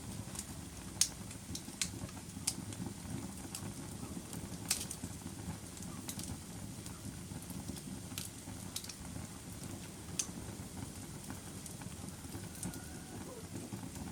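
Wood fire burning in a fireplace: a steady low rumble of flames with sharp crackling pops at irregular intervals, the loudest about a second in.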